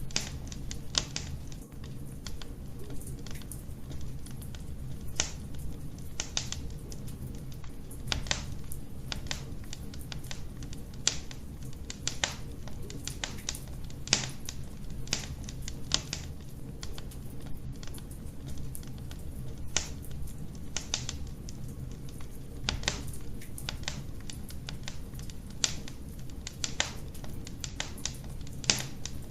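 Wood fire crackling in a fireplace: irregular sharp pops and snaps, a louder one every second or two among many small ticks, over a low steady rumble of the flames.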